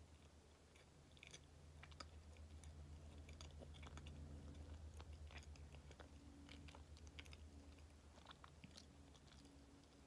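Faint wet mouth clicks of chewing a soft Kamome no Tamago bean-paste sweet. Under them runs the low pulsing hum of a helicopter passing overhead, loudest in the middle.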